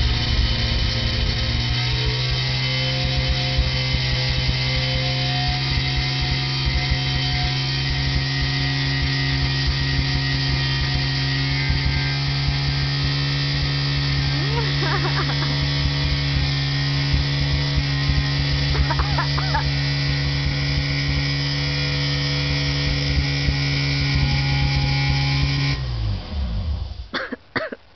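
Mazda 13B peripheral-port rotary engine in an RX4 running at a steady high idle on its first start, with the idle set too high and the engine still untuned. About 26 seconds in, its pitch drops and it shuts off.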